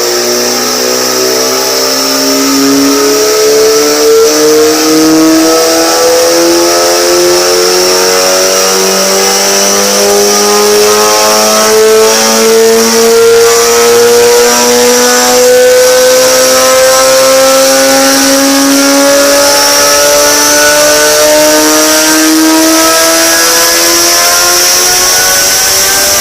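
Honda CBR250RR engine running smoothly with no misfires, its revs and pitch climbing slowly and steadily.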